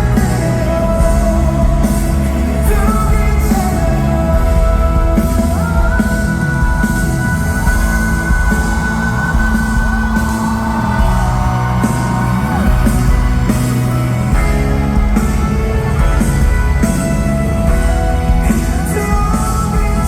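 Live pop-rock ballad over an arena sound system, recorded from the crowd: drums, bass and guitar under long held melody notes, one wavering in pitch around the middle.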